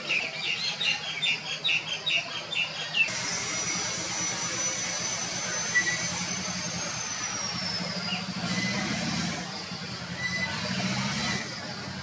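Outdoor garden ambience: a bird chirping in a quick run of short notes, cut off about three seconds in, followed by a thin, high, steady tone that slowly slides down in pitch. A low hum of distant traffic runs underneath.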